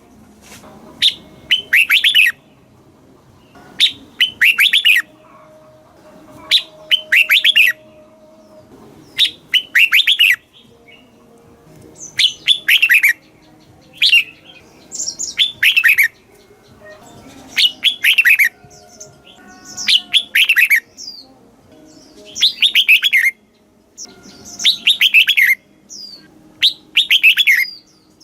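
Red-whiskered bulbul singing: short, bright phrases of quick notes that fall in pitch, repeated every second or two.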